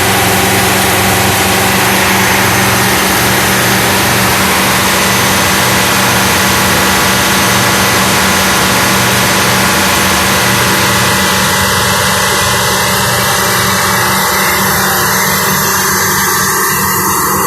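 Detroit Diesel 8V92-TA, a two-stroke turbocharged V8 marine diesel, running loud and steady. Some of its higher-pitched noise eases a little in the last few seconds.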